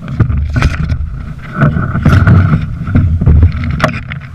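Low rumble of wind and handling noise on the microphone, with scattered sharp knocks and clicks.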